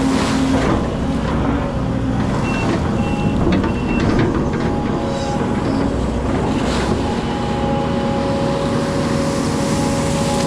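Excavator's diesel engine running steadily under work, with hydraulic whine tones that come and go and shift in pitch, and a few short knocks about four seconds in.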